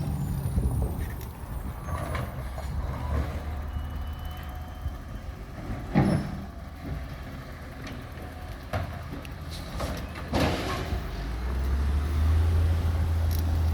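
Garbage truck engine running with a steady low drone, with sharp clunks about six and ten seconds in as a green waste cart is emptied into it. The engine grows louder near the end.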